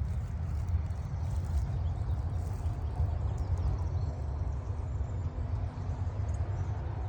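Footsteps crunching on gravel, over a steady low rumble.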